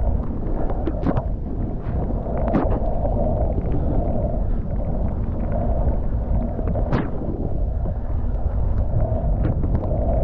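Wind rushing over the microphone of a skier's camera during a run, over the steady noise of skis sliding through snow, with a few sharp clicks.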